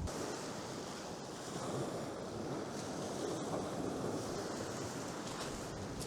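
Sea surf washing on the beach, with strong wind rushing over the microphone.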